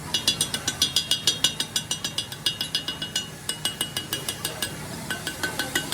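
Rapid hammer strikes on steel, about four or five a second, each blow ringing; a short pause about three seconds in, then softer strikes with a lower ring near the end.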